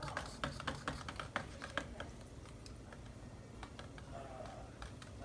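A fork clicking and tapping against a dish as garlic is added, quick light clicks in the first two seconds that thin out to occasional taps.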